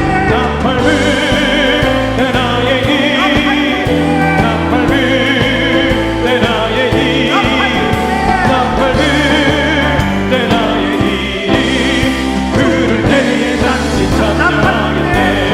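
Congregation singing a gospel hymn together with instrumental accompaniment, many voices in unison.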